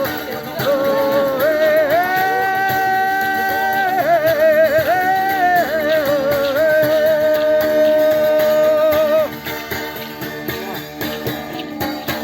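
Live acoustic music: a long, wavering sung or played melody line held over plucked guitar. The melody stops about nine seconds in and the guitar carries on more quietly.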